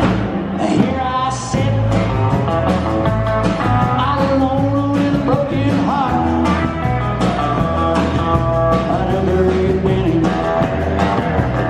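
A live country band playing an up-tempo truck-driving song, with a steady beat and a full band sound.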